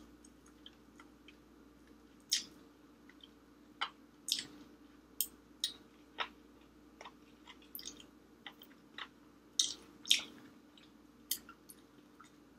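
A person chewing bone-in braised chicken close to the microphone, with sharp wet mouth clicks and smacks at irregular intervals.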